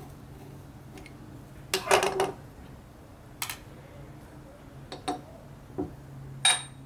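Metal vise parts clinking and clattering as they are handled: a quick cluster of knocks about two seconds in, the loudest, then a few single clinks, the last one ringing briefly.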